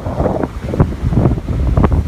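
Wind buffeting the microphone in uneven gusts, over the rush of ocean waves breaking and running up the beach.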